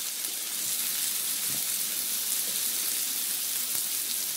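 Sausages and scallops sizzling on a hot griddle: a steady high hiss.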